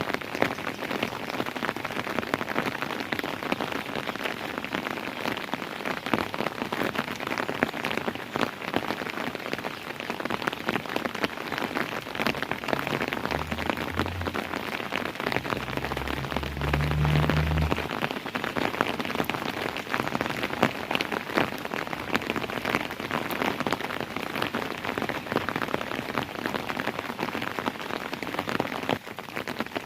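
Steady rain falling on a hard surface, with many separate drops ticking through the hiss. A brief low rumble sits under it from about halfway to just past the middle.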